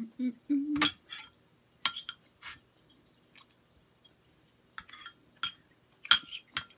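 Close-up eating sounds of someone chewing meatballs and bread: irregular sharp clicks and wet smacks, about seven in all, with a brief low hum at the start.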